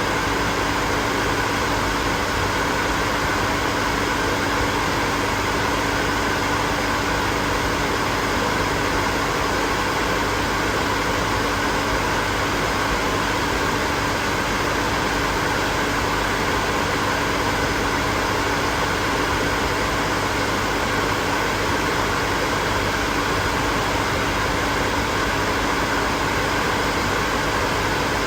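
Hair dryer running steadily: a constant rush of blown air with a steady motor hum.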